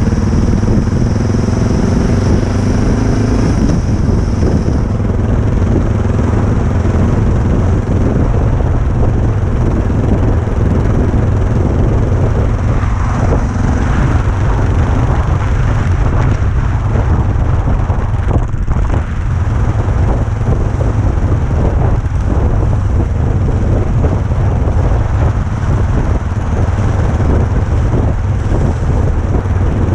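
Motorcycle engine rising in pitch as it accelerates in the first few seconds, then running steadily under a heavy low rumble of wind buffeting the microphone.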